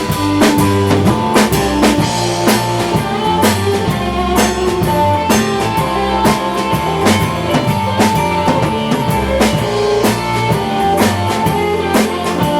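A rock band playing an instrumental passage: a drum kit keeps a steady beat under bass and electric guitar, with no singing.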